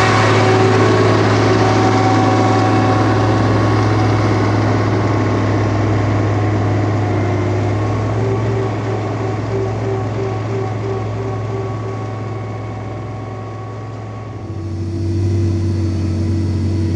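Samil 50 truck's diesel engine running under load, a steady low drone. It eases slightly before changing abruptly about fourteen seconds in.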